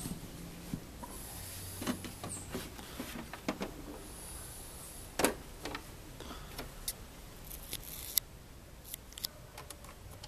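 Scattered plastic clicks and knocks from a Mattel Barbie toy airplane being handled, the loudest about five seconds in, with a few brief hissy scrapes.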